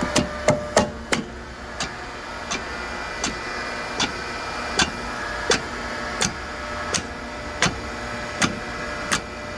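Electric hydraulic pump of a log splitter running with a steady hum. A sharp, regular tick sounds about every three-quarters of a second.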